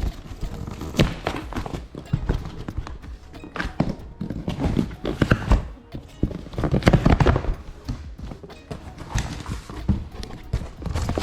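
Handling noise from a cardboard shipping box of engine parts: irregular knocks, thumps and scraping as it is moved about.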